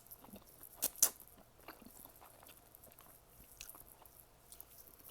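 A person chewing food close to the microphone: two sharp mouth clicks about a second in, then soft, scattered chewing clicks.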